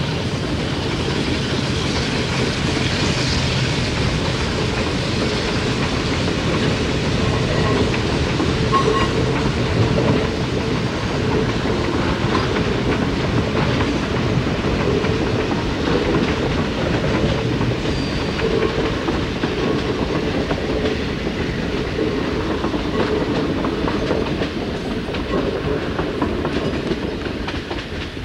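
Passenger coaches of a steam-hauled train rolling across a low bridge, their wheels clicking over the rail joints in a steady clatter that tapers off a little near the end.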